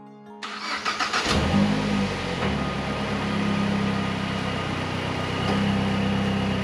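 Mazdaspeed 3's turbocharged 2.3-litre four-cylinder engine started: the starter cranks for about a second, the engine catches with a brief flare in revs, then settles into a steady idle.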